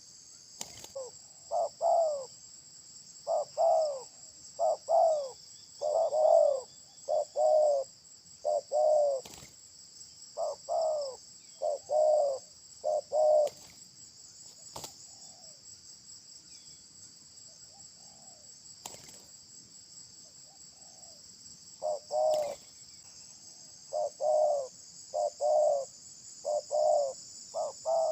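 Bird calling a run of short, arched notes in quick groups of two to four, pausing in the middle and then starting again, over a steady high drone of insects.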